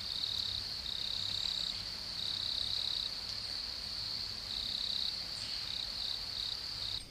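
Insects trilling steadily in a high, unbroken drone, with a slightly lower trill cutting in and out irregularly.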